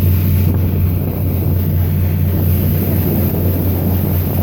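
A cruise boat's engine drones steadily, a low even hum, with wind rushing over the microphone.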